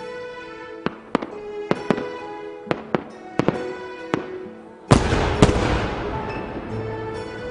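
Fireworks going off over music: a string of sharp bangs every half second or so, then a much louder burst about five seconds in that fades out in a crackling hiss.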